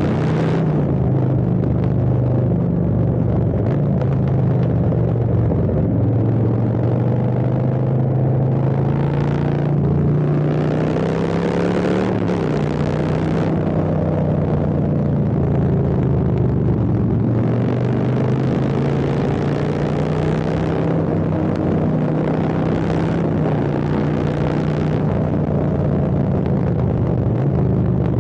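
Harley-Davidson Street Bob's V-twin engine, Stage 2 tuned with an Arlen Ness air intake, running with a deep low note throughout. Its pitch swings up and down about ten to thirteen seconds in, and stretches of added hiss come and go.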